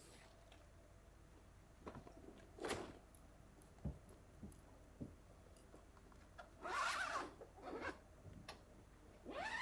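A zipper pulled in three short strokes, the longest and loudest about seven seconds in, with a few light taps and knocks between them.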